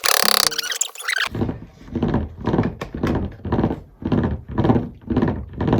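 Small hammer tapping panel pins into a wooden bird feeder roof, a steady run of dull blows about two a second. Before it, background music plays briefly and cuts off suddenly about a second in.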